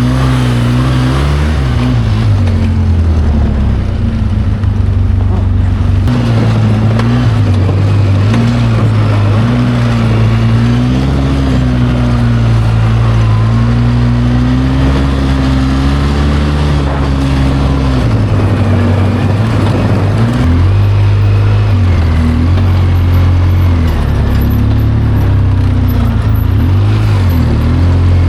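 ATV engine running while driving over rough ground, its pitch rising and falling with the throttle; the engine eases off briefly about two-thirds of the way through.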